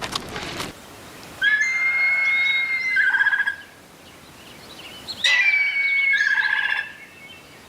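A bird calling twice: each call is a held high note that breaks into a quick run of short notes.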